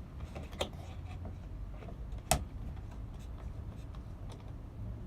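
Light clicks and scratches of hands working fixings into a ceiling-fan mounting bracket, with one sharp knock a little past two seconds in.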